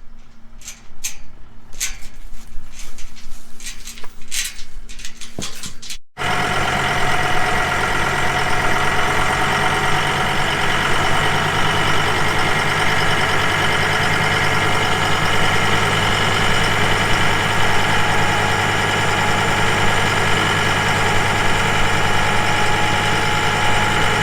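A few irregular clicks and knocks, then, after an abrupt cut about six seconds in, a vehicle engine idling steadily.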